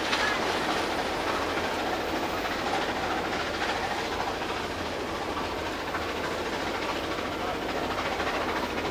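Passenger train car running at speed: a steady rumble and rattle of wheels on the rails, mixed with air rushing past an open window.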